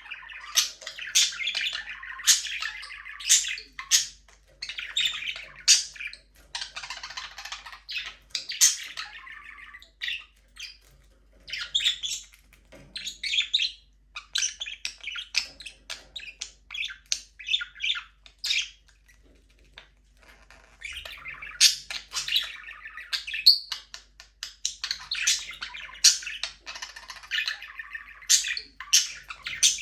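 A flock of budgerigars (parakeets) chirping and chattering: rapid warbling chatter mixed with sharp chirps, coming in bursts with short lulls in between.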